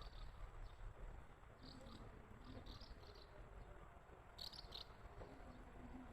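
Faint high-pitched chirping in short clusters of three or four notes, repeating every second or so over a quiet low outdoor rumble.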